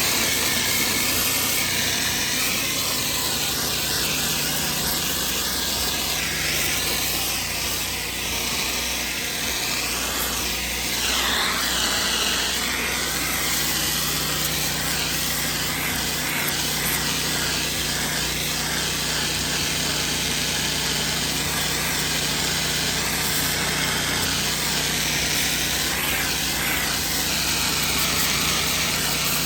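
Pressure washer running steadily, its engine humming under a continuous spray of high-pressure water on concrete.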